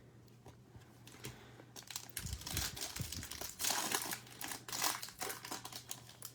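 Crinkling and tearing of a trading-card pack's wrapper as the pack is opened and handled, starting about two seconds in as a dense, irregular crackle.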